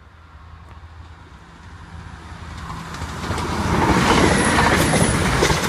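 Class 175 diesel multiple unit approaching and passing over the level crossing. A low engine hum swells into a loud rush of train noise, loudest from about three and a half seconds in.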